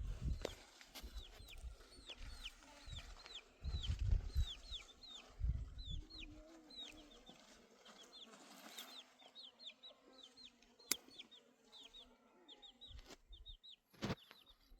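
Chicks peeping: a steady run of short, high, downward-sliding peeps, several each second. Gusts of wind rumble on the microphone now and then.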